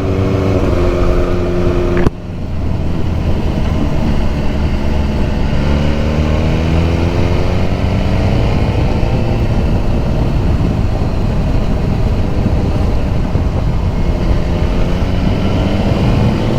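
BMW S1000R's inline-four engine running on the move. About two seconds in the note cuts off abruptly with a click, then the engine note rises steadily as the bike pulls, eases off, and climbs again near the end.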